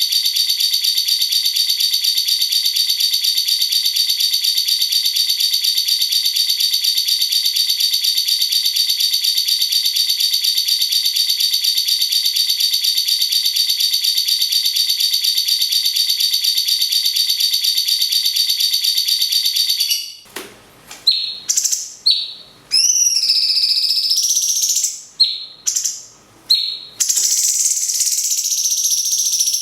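A cage bird's rapid, unbroken rolling trill, even and high-pitched, for about twenty seconds. It then breaks off into separate whistled calls that glide up and down, and a steady high chatter starts near the end.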